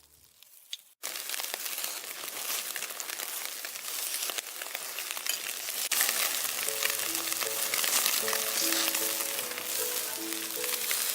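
Marinated skewers sizzling as they cook, a dense crackle that starts suddenly about a second in and keeps going. Soft background music comes in under it about halfway through.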